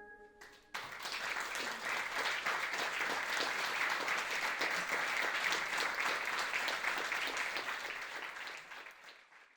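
Audience applauding, coming in suddenly about a second in and fading out near the end.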